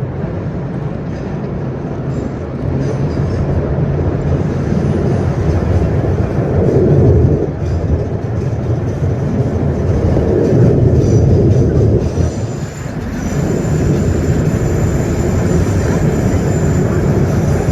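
R1-9 subway train running at speed between stations, a steady rumble of wheels on rail and motors heard from inside the car. It swells louder twice and dips briefly near the end.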